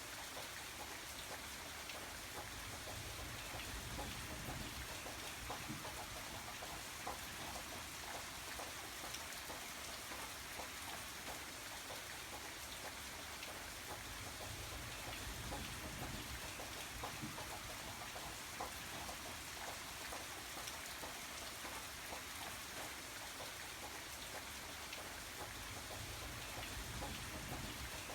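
Steady rain falling, with the patter of many drops landing on a surface and a low rumble underneath.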